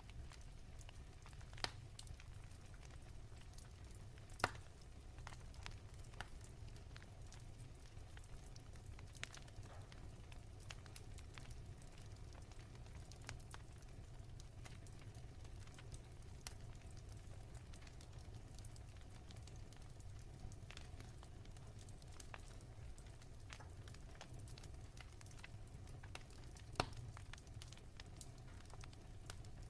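Wood fire crackling softly, with many small ticks over a low steady rumble. There are a few sharper pops from the burning logs, the loudest about four seconds in and another near the end.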